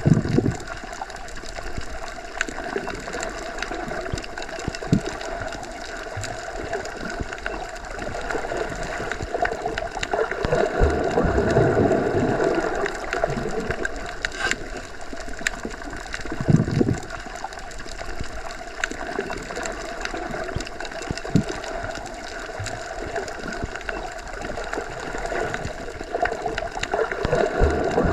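Underwater ambience: a steady, muffled rush and gurgle of water as heard from below the surface. It swells in loudness about ten seconds in and again near the end, with a few short low thumps.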